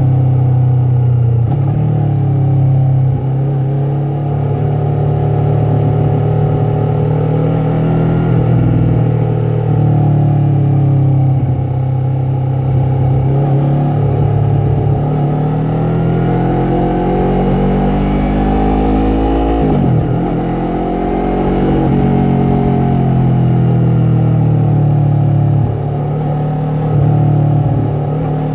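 Yamaha MT-03 parallel-twin engine and exhaust under way, the pitch rising and falling repeatedly with throttle and gear changes, with a sharp drop and climb back about twenty seconds in.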